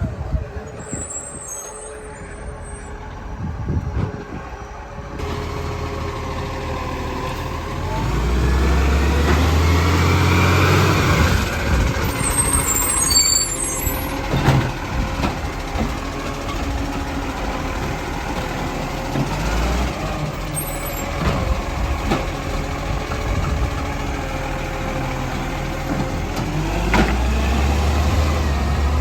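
Garbage truck's diesel engine running, revving up heavily about eight seconds in and again near the end.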